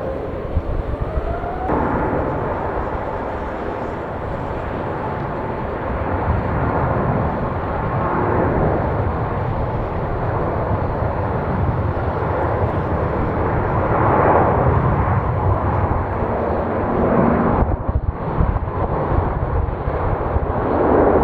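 Jet airliner passing close by, its engines a loud, steady rushing rumble. A whine rises in pitch over the first couple of seconds, and the noise swells several times.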